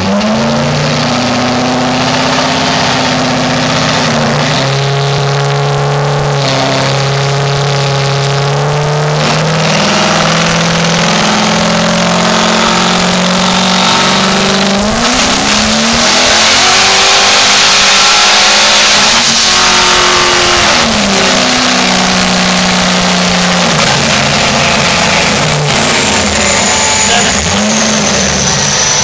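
Twin-turbocharged 6.0-litre V8 of a 2006 Corvette automatic running under load on a chassis dyno: engine speed climbs in steps and sweeps, is loudest about two-thirds of the way through, then drops back. A high whine falls in pitch near the end.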